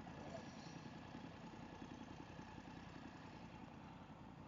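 Motorcycle engine idling faintly and steadily.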